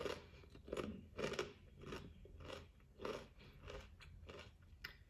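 A person chewing a mouthful of taco, steady chews at roughly three every two seconds.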